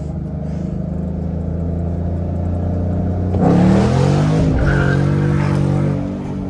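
Straight-piped 5.0 V8 of a 2013 Mustang GT (muffler and resonator deleted) pulling hard in first gear at full throttle. About halfway through it gets suddenly louder and rougher, with the pitch sliding, and it eases off near the end.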